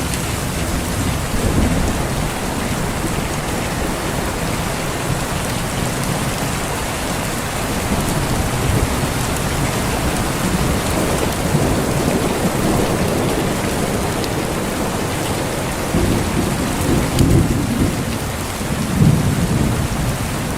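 Steady heavy rain with low rolling thunder that swells and fades several times, strongest near the end.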